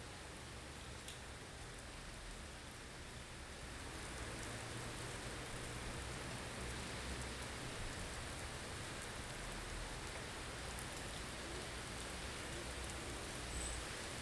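Blizzard ambience: a steady hiss of wind-driven snow with a low rumble of wind beneath, swelling a little about four seconds in.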